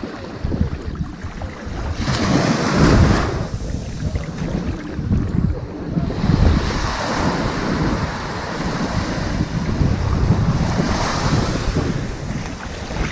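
Ocean waves washing onto a sandy beach: a steady rushing surf, with one wave surging about two seconds in and a longer swell building and falling through the second half.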